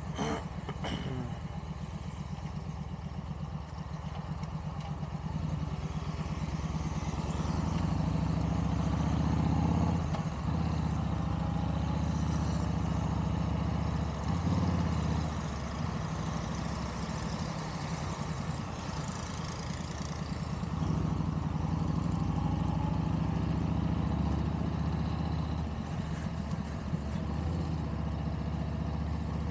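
Yamaha cruiser motorcycle's engine running while riding in traffic, the engine note rising and falling a few times as it accelerates and eases off.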